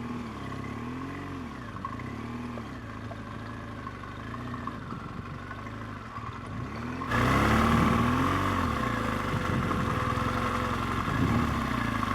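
BMW R1200GS's boxer-twin engine at low speed, its revs rising and falling again and again as the bike is ridden slowly. It gets suddenly louder, with more rushing noise, about seven seconds in.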